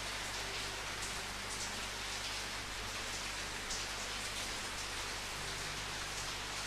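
Steady rain falling on a surface, an even hiss with scattered drops standing out now and then.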